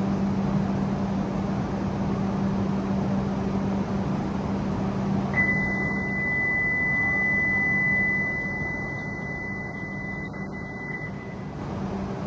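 Steady hum of a stopped E5 series Shinkansen train and platform ambience. About five seconds in, a steady high-pitched beep starts and lasts about five and a half seconds.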